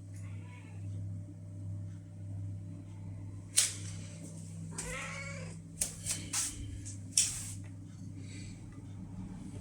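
A domestic cat meows once, about halfway through, between several sharp clicks and knocks, the loudest a little before the meow. A steady low hum runs underneath.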